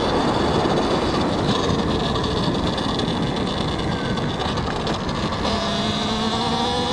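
Talaria X3 electric dirt bike being ridden, with wind and tyre rush on the helmet mic. The electric motor's whine rises in pitch near the end as the bike speeds up.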